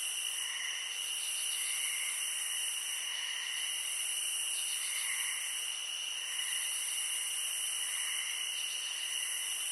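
Steady ambience of an insect chorus, like crickets chirring at night, with a soft call repeating about once a second over it.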